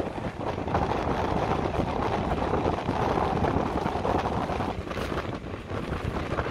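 ICF passenger coach running along the track: a steady rumble of wheels on rail mixed with wind buffeting the microphone held out of the open window.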